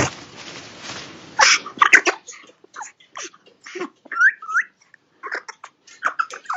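Young Congo African grey parrots calling: a string of short squawks and clicks, with two curved whistles about four seconds in. A rushing noise fills the first second and a half.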